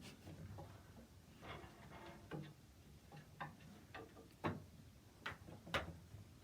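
Irregular light clicks and taps, about half a dozen: a cat clambering over wooden wall shelves and frames while playing with a toy.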